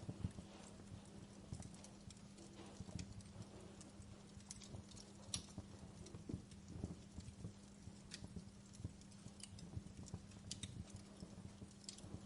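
Burning logs in a fireplace crackling: irregular sharp pops and snaps at uneven intervals, over a low steady hum.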